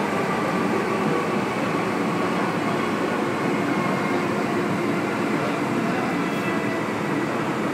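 MTR M-Train electric multiple unit running at speed, heard from on board: a steady rumble of wheels on rail with faint steady whine tones from the traction equipment.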